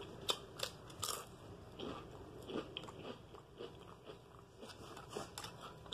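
A person chewing and crunching a wavy potato chip close to the microphone: a few crisp crunches in the first second or so, then softer, irregular chewing.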